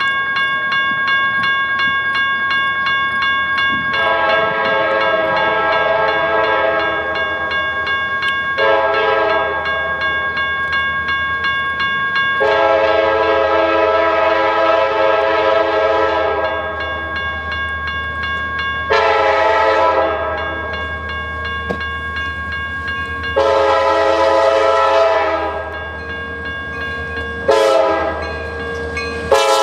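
A CSX freight locomotive's air horn sounds a series of long and short blasts, each a chord of several tones. Under the horn runs the steady low rumble of the approaching intermodal train.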